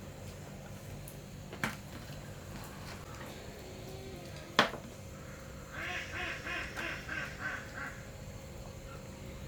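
Two sharp knocks, the second louder, then an animal calling in a quick run of about a dozen short notes, about five a second, over a steady low hum.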